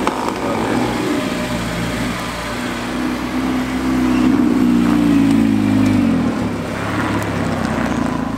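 A car engine running close by: its pitch rises from about three seconds in, holds, then falls away near six seconds as the engine eases off.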